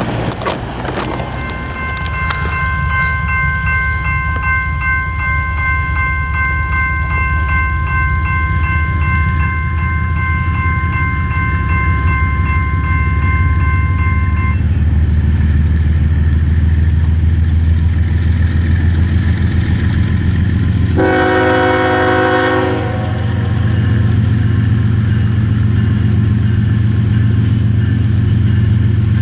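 Railroad crossing bell ringing steadily, stopping about halfway through, while a diesel freight locomotive's low rumble builds as it approaches. About two-thirds of the way in, the locomotive's air horn sounds one blast of about two seconds, and the train carries on rumbling past.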